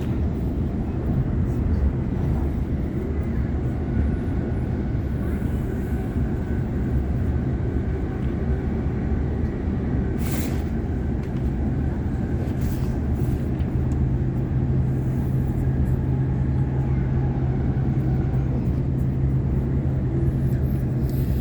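Sydney Trains Waratah electric train running at speed: a steady rumble of wheels on track, with a low steady hum that grows stronger about seven seconds in and a short whoosh about ten seconds in.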